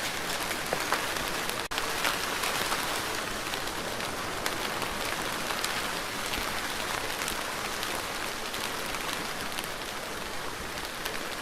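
Steady rain falling, an even hiss dotted with many separate drop ticks. The sound cuts out for an instant a little under two seconds in.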